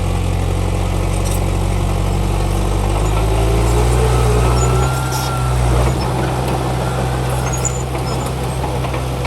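Heavy diesel earthmoving machinery running under load, its low engine note shifting in pitch about halfway through, with a faint high squeal near the middle.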